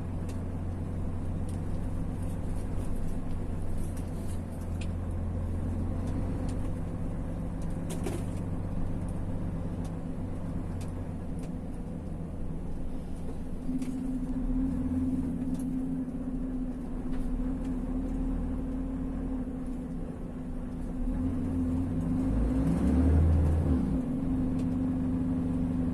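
Vehicle engine and road noise heard from inside the cab while driving, a steady low drone whose pitch changes about halfway through, then briefly rises and falls near the end.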